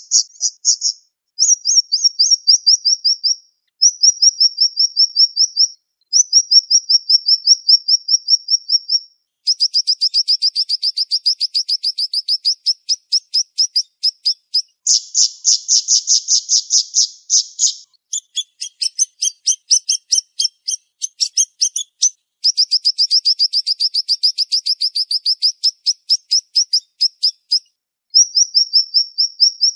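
A siri-siri bird singing in rapid, tightly spaced trills of high, sharp notes. The phrases are about two to five seconds long with short pauses between them, and some phrases are denser and harsher than others.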